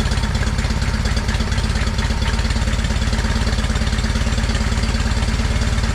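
John Deere 317 garden tractor engine idling steadily with the choke off, its firing pulses fast and even. The engine has just started after being reinstalled, and the idle is slow.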